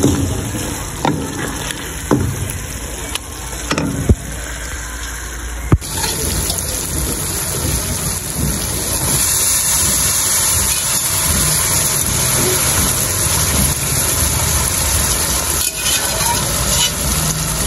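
A wooden spatula stirs and knocks against an aluminium pot of masala, with several sharp taps in the first few seconds. After that comes a steady, hissing sizzle of the masala frying over the stove flame.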